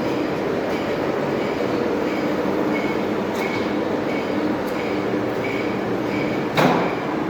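Metal-turning lathe running: a steady mechanical noise with a short high squeak repeating a little under twice a second, and one sharp clunk near the end.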